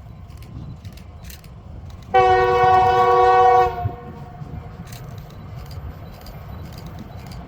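Locomotive air horn sounding a single multi-note chord blast of about a second and a half, starting about two seconds in, over the steady low rumble of a moving train.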